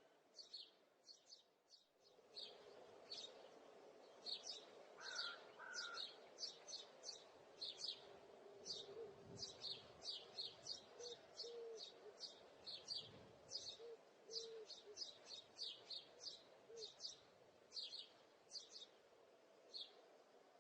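Small birds chirping: a steady run of short, high chirps, two or three a second, over a faint low hum.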